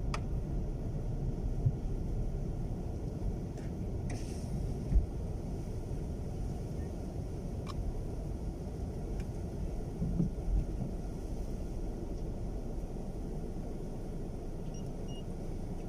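Steady low rumble of a car's road and wind noise heard from inside the cabin while driving slowly in strong wind, with one sharp thump about five seconds in and a few faint ticks. A couple of faint short beeps sound near the end.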